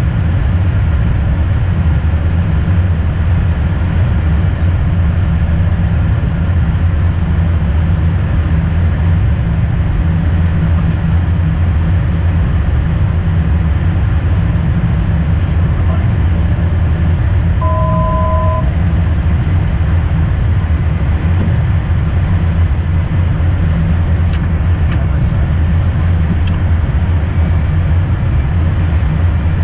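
Steady low rumble of cockpit noise in an Embraer Phenom jet in flight, airflow and engines, with a short electronic two-note tone a little past halfway.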